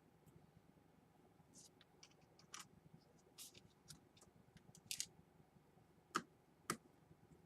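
Faint clicks and light scrapes of small laptop parts being handled and fitted, with two sharper clicks about six seconds in.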